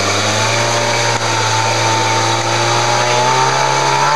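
Off-road 4x4's engine held at high revs under load as the vehicle climbs a steep muddy track, its pitch creeping slightly upward. The engine eases off right at the end.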